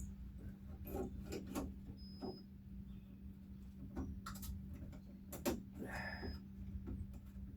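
Scattered light clicks and taps of small metal and plastic latch parts being handled and fitted in a Jeep door, at irregular intervals, over a steady low hum.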